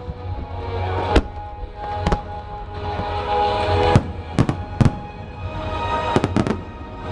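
Fireworks going off in sharp bangs, about ten of them, several in quick clusters, over steady music.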